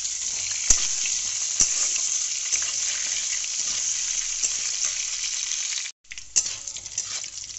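Potato chunks sizzling in hot oil in a metal kadai, stirred with a metal spatula that clicks against the pan a few times. The sizzle breaks off for a moment about six seconds in, then comes back softer.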